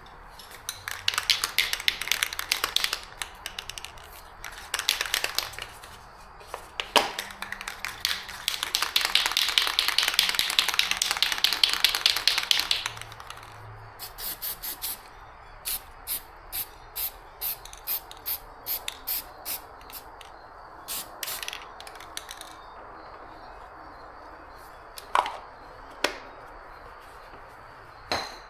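Aerosol spray can of Rust-Oleum Farm and Implement white paint hissing in several short bursts and one longer pass of about five seconds. After that the can is shaken, its mixing ball clacking about twice a second for several seconds.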